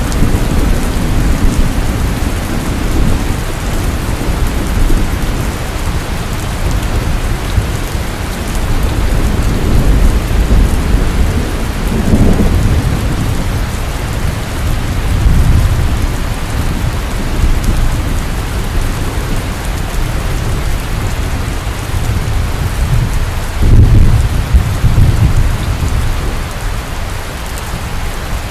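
Heavy rain pouring steadily, with low rolling thunder that swells and fades several times, strongest about twenty-four seconds in.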